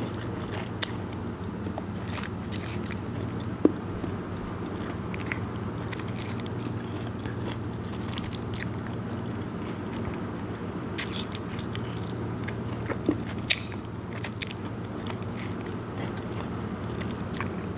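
Close-miked chewing of crunchy star gooseberry salad, with scattered sharp crunches as the firm fruit is bitten, over a steady low hum.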